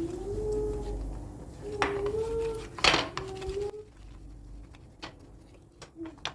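Dishes and cutlery being handled, with a few sharp clinks; the loudest comes about three seconds in. A held, slightly wavering tone sounds underneath and stops a little before four seconds in.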